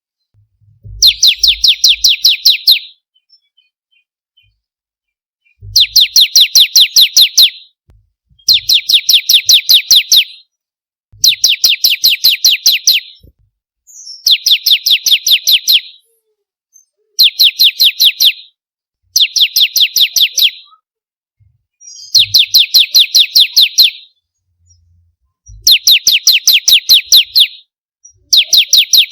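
Ciblek kristal, a bar-winged prinia, singing its repeated song. It gives about ten phrases, each a fast, high-pitched run of sharp chirps lasting around two seconds, separated by short pauses.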